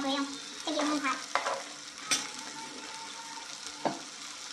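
Potato wedges and sliced onions frying in oil in a wok, sizzling steadily, with a few sharp clicks.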